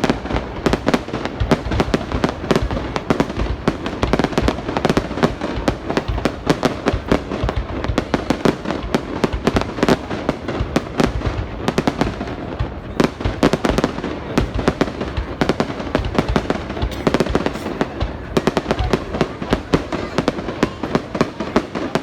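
Fireworks going off in a dense, continuous barrage: many sharp bangs and crackles a second, overlapping with no pause.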